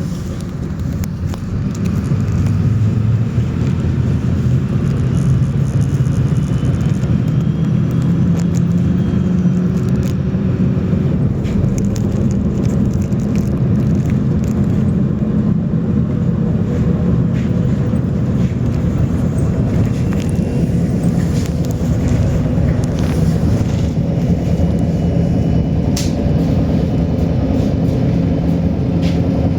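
MAZ 107.066 city bus under way: its diesel engine drones steadily, with road noise and scattered rattles. The drone grows louder about two to three seconds in, as the bus pulls away or speeds up.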